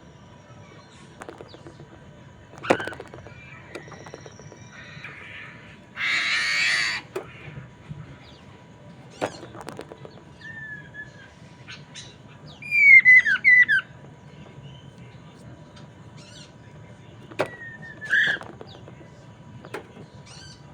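A poksay mandarin songbird singing in scattered phrases with pauses: short sharp calls, a harsh rasping burst about six seconds in, and a loud run of falling whistled notes around thirteen seconds in.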